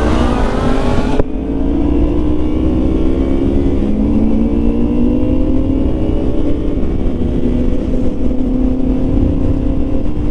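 Motorcycle engine, presumably the Yamaha MT-09's three-cylinder, pulling on the road under the rider, with wind noise on the microphone. There is a brief dip about a second in, and after that the engine note climbs slowly and steadily as the bike gathers speed.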